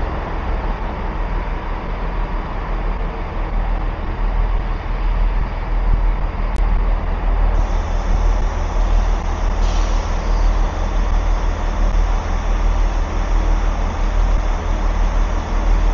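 Steady low rumble of a train's engine running at the station, with a single sharp click about six and a half seconds in.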